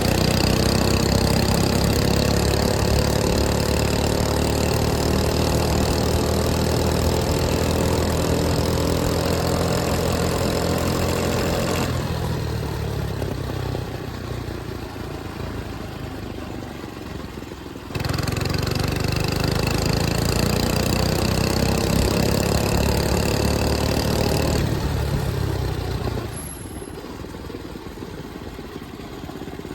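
105cc mini bike engine under way, pulling up through the revs with a rising pitch, then backing off and quieting. It comes back loud all at once about 18 seconds in, rises in pitch again, then drops off near the end.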